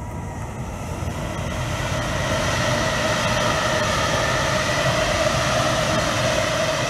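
Eight-car double-deck Sydney electric suburban train passing close by, its rumble and wheel noise building over the first two seconds and then holding steady, with a steady whine running through it.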